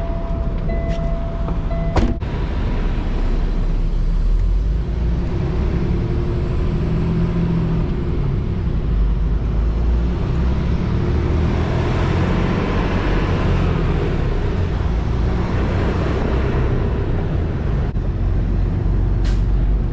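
Semi truck's diesel engine running with a steady low rumble. A steady tone sounds for about the first two seconds and ends with a click.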